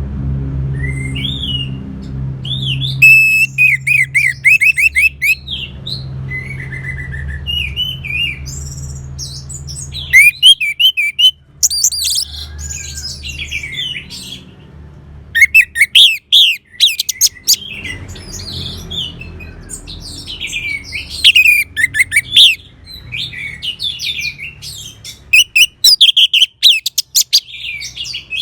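Orange-headed thrush (anis merah) singing in repeated loud phrases of quick whistled notes and rapid trills, separated by short pauses.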